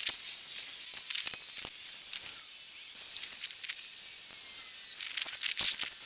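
Welding arc hissing steadily, with irregular sharp crackles throughout.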